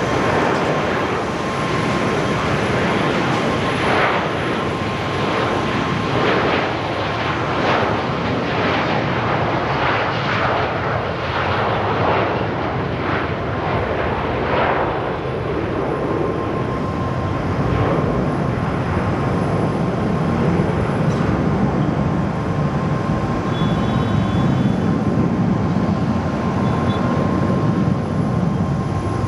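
Jet airliner engines roaring as the plane passes, a continuous loud rush with a deeper rumble building in the second half.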